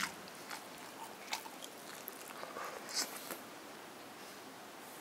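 Faint chewing of food, with a few soft, scattered mouth clicks; the loudest click comes about three seconds in.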